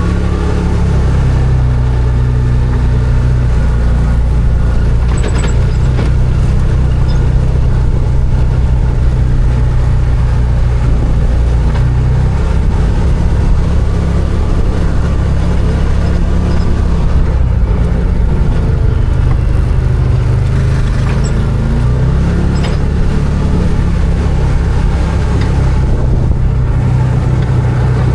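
Arctic Cat Wildcat 1000 side-by-side's V-twin engine running steadily under way, its pitch shifting slightly a few times with throttle, with a few brief clicks and knocks from the ride.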